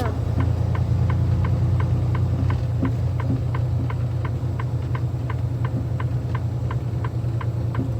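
Semi-truck engine running steadily as a low rumble inside the cab, with a turn signal ticking about three times a second.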